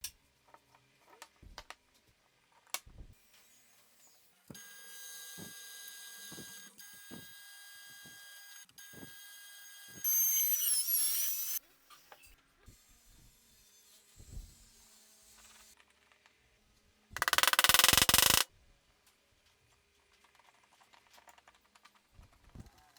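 Compact router and workshop handling: scattered knocks and clicks, then a motor running steadily for several seconds, a louder high whine with wavering pitch for about a second and a half, and later a short, harsh burst of noise that is the loudest part.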